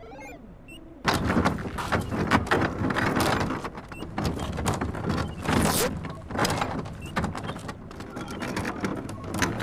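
A busy run of clattering knocks and rattles, starting about a second in and going on without a break.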